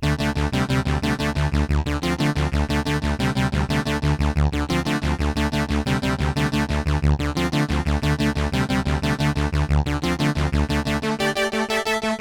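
Jeannie polyphonic DIY synthesizer playing a fast, evenly repeated note pattern over a low bass line. About eleven seconds in the bass drops out and only the higher notes carry on.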